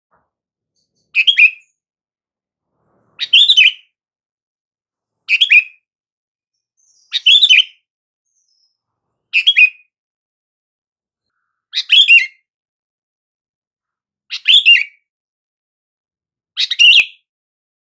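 Sooty-headed bulbul (kutilang) calling: a short burst of a few quick, bright notes, repeated eight times about every two seconds with silence between.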